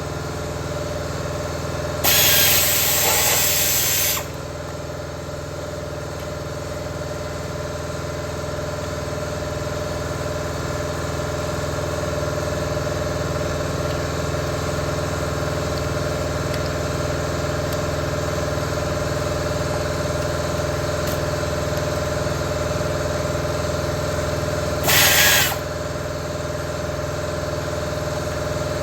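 A steady mechanical hum, with two loud bursts of a hand-held power tool: one lasting about two seconds starting a couple of seconds in, and a shorter one near the end.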